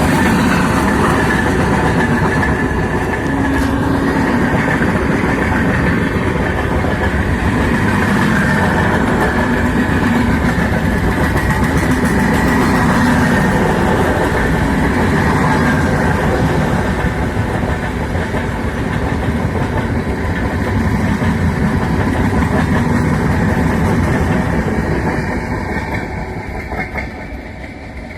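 A fast train passing close by, its wheels running on the rails in a loud, steady rumble that fades away over the last few seconds.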